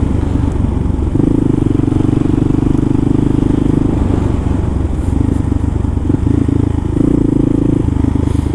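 Kawasaki KLR650's single-cylinder engine running under way, its sound changing several times as the throttle or gear changes.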